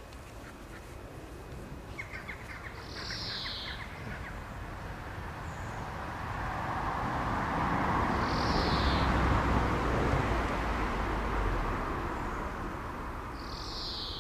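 A bird calling three times: short, high, falling calls about five seconds apart. A rapid chattering comes just before the first call, and a rushing noise swells to its loudest in the middle.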